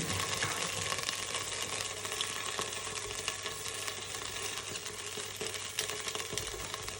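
Butter sizzling and melting in hot olive oil in a pan: a steady crackling hiss.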